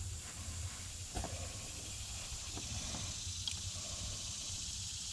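A few faint clicks from wire being handled and fed through a vehicle body, over a steady high hiss and a low rumble of outdoor background.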